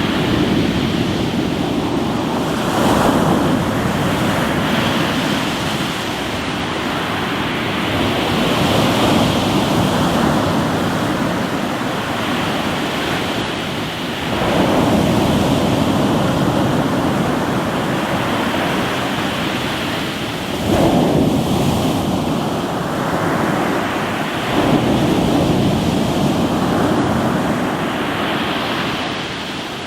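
Ocean waves breaking and washing over a rocky shore, swelling in surges every few seconds over a constant rush of surf. Wind buffets the microphone.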